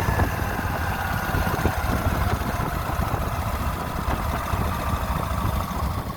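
Motorcycle engine running with a steady low rumble, its pitch slowly falling as the bike eases off.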